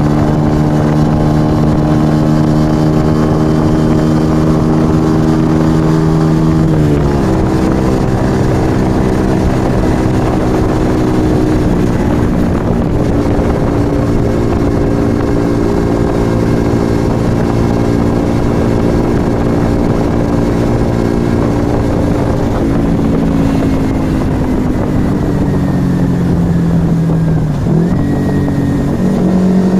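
Yamaha XV125 Virago's 125 cc V-twin running through an aftermarket Turbo Kit exhaust under way, with wind rush over it. The engine note drops sharply about seven seconds in, holds steady, then eases down again later and dips briefly near the end before picking back up.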